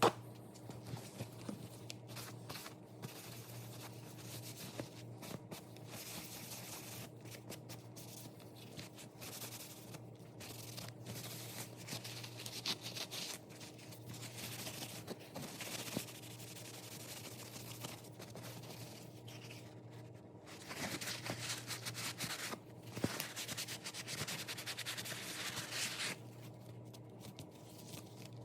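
Hand rubbing and scraping strokes on a leather wallet, irregular and busier for a few seconds near the end, over a steady low hum.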